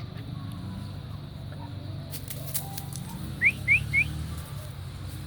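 Three quick rising whistles about a third of a second apart, over a steady low hum: a person whistling to call a dog.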